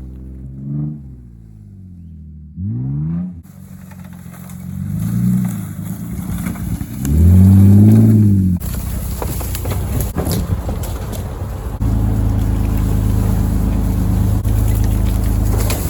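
1995 Mercedes-Benz E320's straight-six engine revving up and down in several pulls while driving on a trail. About halfway through, the engine tone gives way to a steady rushing rumble with scattered clicks and knocks.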